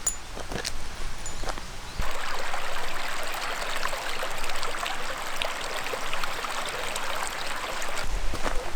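A small creek flowing: a steady rush of running water that starts suddenly about two seconds in, after a few light clicks.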